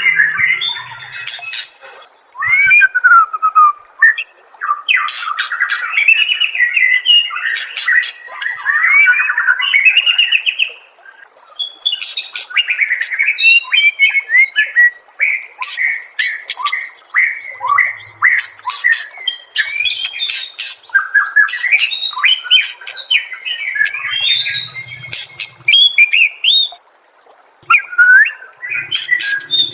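White-rumped shama singing a long, varied run of whistled, warbling and chattering phrases mixed with sharp clicking notes, with brief pauses a few seconds in, about a third of the way through, and near the end.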